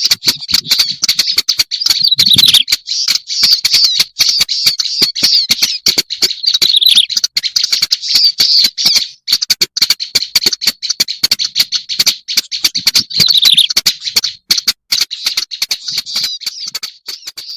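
Black-browed reed warbler song: a fast, loud, continuous run of harsh chattering and clicking notes with buzzy phrases, broken only by brief pauses.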